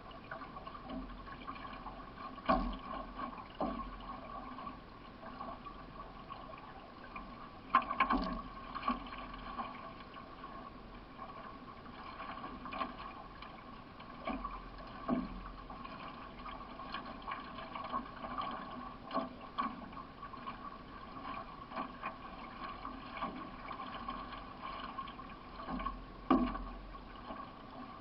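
Paddle strokes from a solo racing canoe: water splashing and trickling off the blade over a steady rush of water, with irregular sharp splashes or knocks, the loudest about eight seconds in and near the end.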